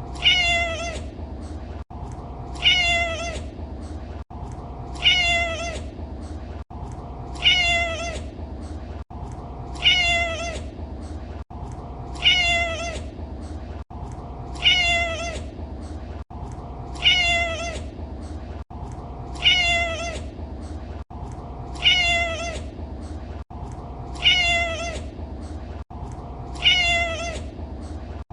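A domestic cat's meow repeated over and over, about twelve times, one short rise-and-fall meow every two and a half seconds. Each one is identical, as from a looped recording. A steady low background noise runs under them.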